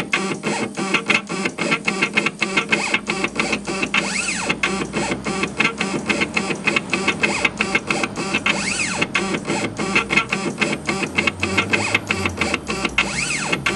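Stepper motors of a homemade CNC laser engraver driving the head back and forth on a raster engraving pass: a steady motor whine broken by rapid, irregular stepping clicks, with the pitch sweeping up and back down about every four and a half seconds.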